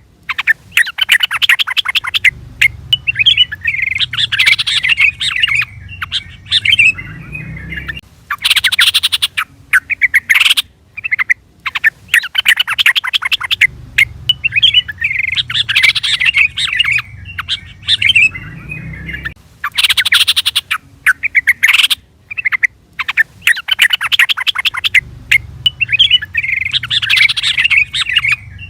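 Yellow-vented bulbul (trucukan) calls: fast bursts of chattering, bubbly notes, with the same phrase sequence repeating about every six seconds.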